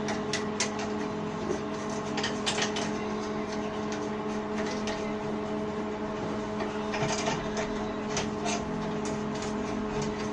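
A steady machine hum with intermittent clicks and metal clanks from hand tools during the engine installation.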